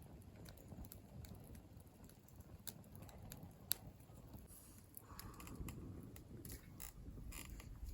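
Faint, irregular small clicks and ticks scattered throughout, over a low background rumble.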